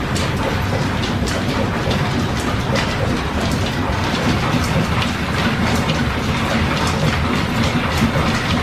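Steam-powered workshop machinery running steadily: a continuous low rumble with frequent irregular light clicks and knocks.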